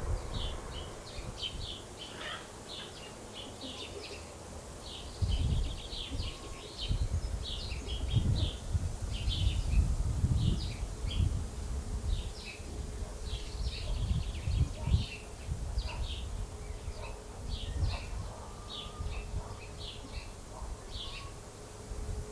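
Small birds chirping constantly, many short high chirps overlapping, with irregular low rumbles and a faint steady hum in the background.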